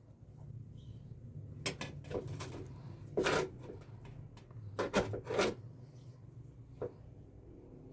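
Irregular knocks and short scrapes of hard objects being handled, in clusters about two, three and five seconds in and once more near the end, over a low steady hum.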